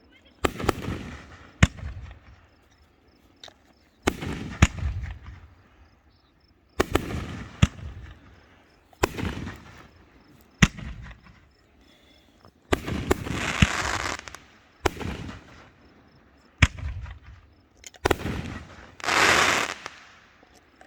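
Aerial fireworks shells bursting one after another, a sharp bang every second or two, each trailing off in a rolling echo. Twice, near the middle and near the end, a burst is followed by about a second of loud hissing.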